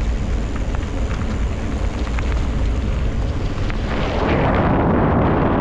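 Wind buffeting the microphone of a camera on a bicycle speeding downhill: a heavy, steady rumble that grows louder about four seconds in as the bike picks up speed.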